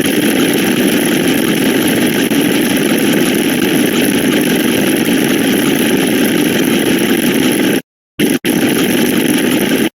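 Loud, steady rushing noise from a looped sound effect, engine-like in character, that starts abruptly and cuts in and out sharply near the end.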